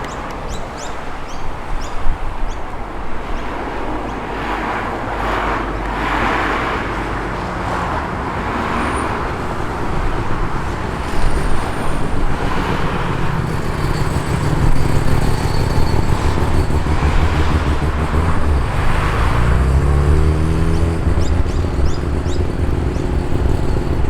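Performance cars driving past one after another, with repeated swells of tyre and engine noise. From about halfway a deeper engine note builds, and its pitch climbs near the end as a car accelerates.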